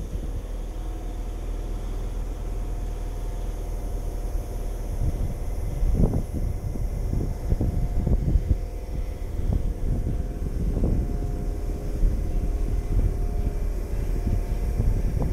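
Electric multiple-unit trains at a station platform: a steady low rumble and hum with faint steady tones. Irregular low thumps of wind buffeting the microphone grow heavier from about five seconds in.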